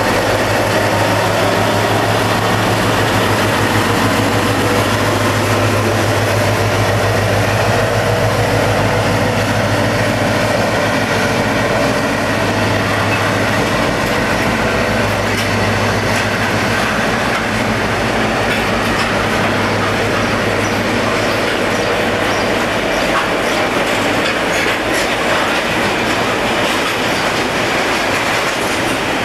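Heavy freight train passing: the diesel locomotive's engine drone is strong at first and fades as it draws away. A long rake of loaded box wagons follows, rumbling and clattering over the rail joints of the unwelded track.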